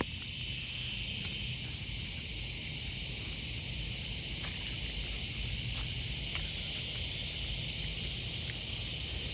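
Steady summer-night insect chorus of crickets and other bugs, a dense unbroken high-pitched trill, over a low steady rumble, with a few faint clicks.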